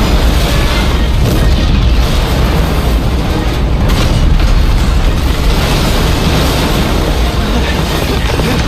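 Animated sound effect of a huge explosion: a continuous heavy rumble as the ground shakes, with dramatic orchestral-style score mixed underneath.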